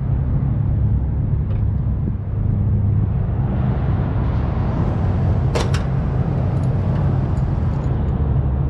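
Steady low rumble of a car engine idling close to the microphone, with a couple of sharp clicks about five and a half seconds in.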